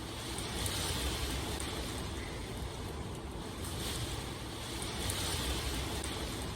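Steady rain noise with a low rumble underneath, its hiss swelling and easing every second or two.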